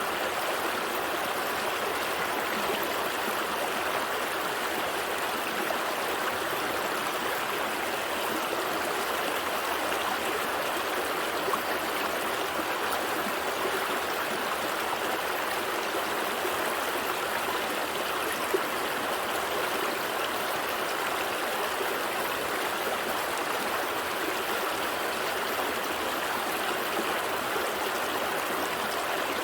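Small stream flowing steadily, a continuous even rush of water with light trickling and gurgling.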